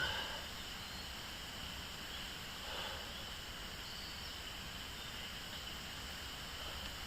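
Insects trilling steadily in the woods, a continuous high-pitched drone, with a brief soft sound about three seconds in.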